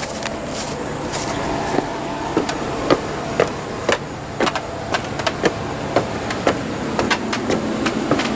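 Steady hum and hiss of air conditioners running, with a thin high whine. Sharp knocks come about twice a second from about two seconds in, like footsteps.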